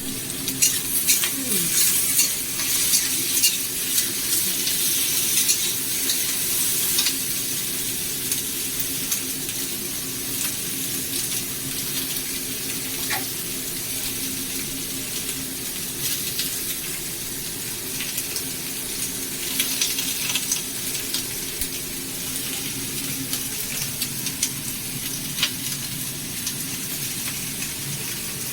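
Chopped capsicum sizzling as it fries in oil in a pan, with a spoon clicking and scraping against the pan as it is stirred. The stirring is busiest in the first several seconds. A steady low hum runs underneath and fades out near the end.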